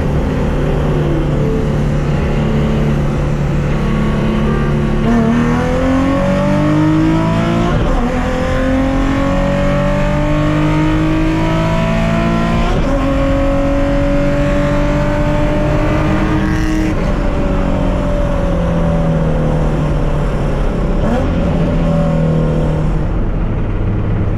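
A Nissan VQ35DE V6 engine pulls through the gears. Its pitch holds steady at first, then climbs, drops back at a shift about eight seconds in, climbs again to a second shift, holds, and falls away as the car slows.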